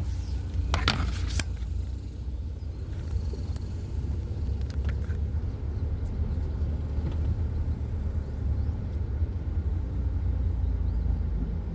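Car driving on a road, heard from inside the cabin: a steady low rumble of engine and tyres, with a few sharp knocks about a second in.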